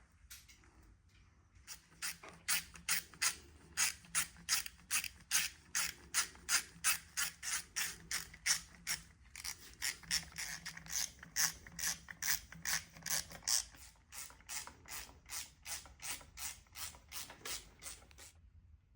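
Hand ratchet wrench clicking steadily, about three clicks a second, as a fastener is turned; the clicks grow softer about two-thirds of the way through.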